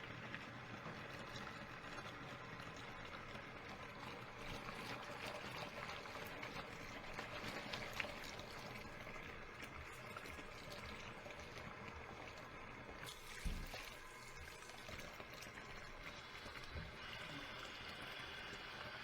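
Water running into a kitchen sink as dishes are washed by hand, with scattered light clinks and a dull knock about two-thirds of the way through.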